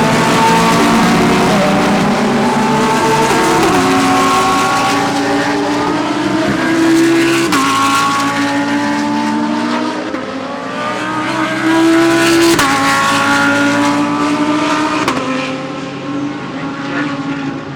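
Several GT3 race cars accelerating hard, their overlapping engine notes climbing through the revs and dropping at upshifts a few times.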